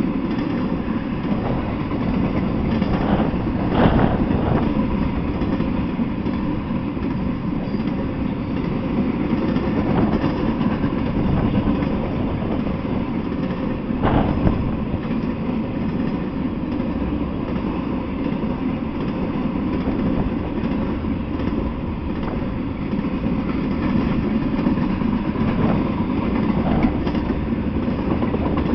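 Intermodal freight train rolling past: a steady rumble of steel wheels on rails. Two sharper clanks stand out, about 4 and 14 seconds in.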